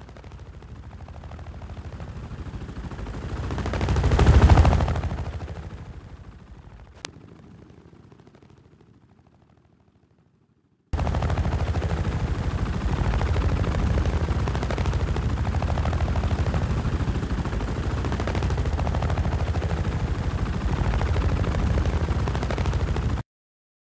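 Helicopter flying past: its rotor and engine noise swells to a loud pass about four seconds in, then fades away. After a second of silence comes a loud, steady, rapid rattling, typical of sustained machine-gun fire, which stops abruptly near the end.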